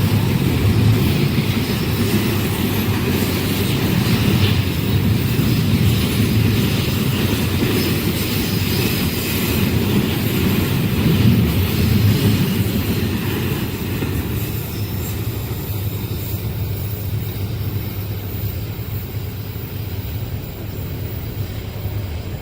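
A passenger train passing at speed: a steady loud rumble of wheels and carriages that is strongest until about halfway and then slowly fades.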